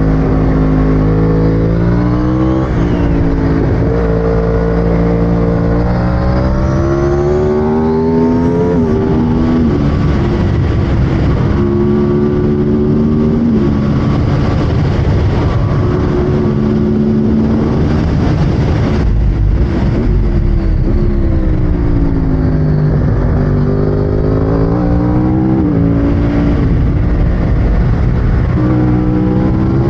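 2009 Yamaha R1 superbike's crossplane inline-four engine at race pace, heard from inside the rider's helmet. The engine note repeatedly climbs as it accelerates hard, then drops with each gear change or braking for a bend.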